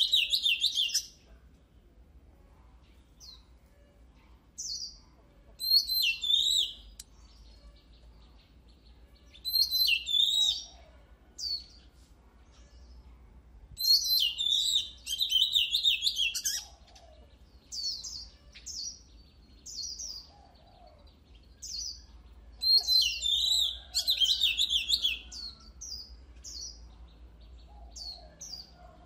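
Oriental magpie-robin singing: bursts of rapid, high, varied whistled notes a second or two long, repeated every few seconds, with single down-slurred whistles in between.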